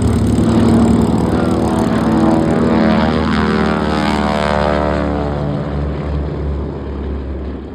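North American P-51D Mustang's Packard Merlin V-12 engine passing by. Its note drops in pitch partway through as it goes past, then fades away toward the end.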